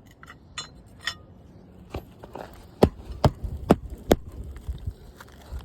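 Hammer work on an asphalt shingle roof during shingle removal: light clicks and scrapes, then four hard hammer strikes about half a second apart, followed by a few lighter taps.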